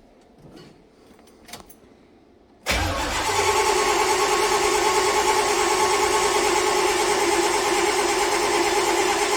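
Starter cranking the Chevelle's rebuilt 396 big-block V8, a steady whirring for several seconds that starts a few seconds in and stops abruptly, without the engine firing. No fuel is reaching the carburetor: a loose fuel-line fitting lets the pump suck air.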